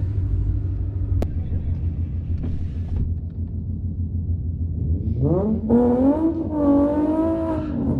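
Ford Mustang GT's 5.0 V8 with a full aftermarket exhaust rumbling at low revs, then revving up about five seconds in and holding higher for a couple of seconds before starting to ease off near the end. A single sharp click about a second in.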